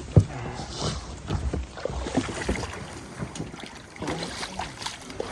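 Irregular knocks and bumps on a kayak, with water and wind noise on the microphone; a sharp thump just after the start is the loudest.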